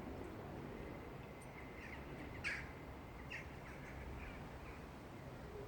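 A bird calling a few short times, the clearest call about halfway through, over a faint steady rumble of wind.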